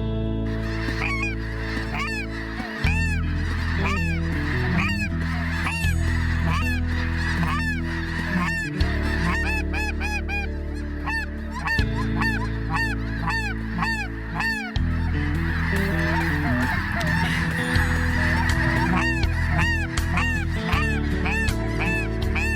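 A large flock of snow geese calling overhead: many overlapping high, yelping honks, dense throughout and thinning briefly about two-thirds of the way in. Steady background music with chord changes every few seconds runs underneath.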